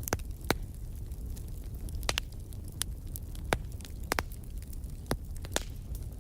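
Fireplace fire crackling: about ten sharp, irregular pops over a steady low rumble of the flames.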